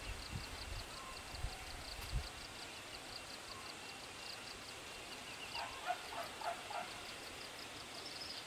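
Quiet farm ambience: a high chirp pulsing evenly several times a second, a few soft low thumps in the first two seconds, and a short run of fowl-like calls about six seconds in.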